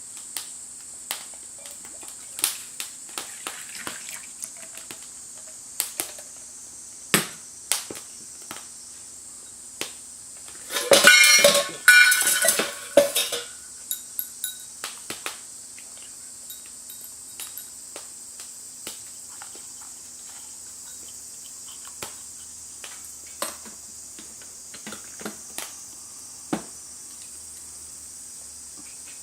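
Metal cookware being handled: scattered clinks and taps, with a loud burst of clattering about eleven seconds in, over a steady high-pitched hiss.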